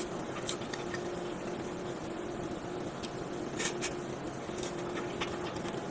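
Wet, sticky chewing and mouth sounds of a person eating a mouthful of cheesy baked macaroni and cheese, with a few sharp smacks, the sharpest about three and a half seconds in, over a faint steady hum.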